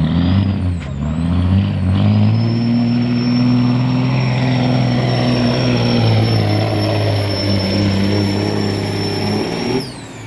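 1998 Kenworth W900L semi's diesel engine under full load pulling the sled, with a high turbo whistle over it. The revs rise and dip for the first couple of seconds, then hold steady. About ten seconds in the driver lets off, and the engine drops while the whistle falls away.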